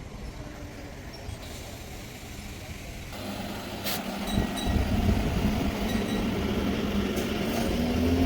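A train approaching, its low rumble and steady hum growing louder from about three seconds in, with a single click about a second later.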